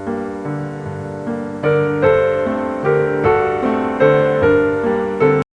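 Piano music with notes changing about twice a second. It gets louder about one and a half seconds in, then cuts off suddenly near the end.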